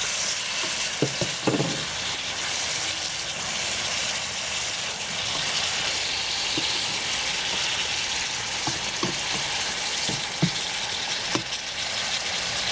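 Tomato wedges and sliced onion sizzling in oil in a wok, a steady hiss, while a plastic slotted turner stirs them, knocking and scraping against the pan now and then.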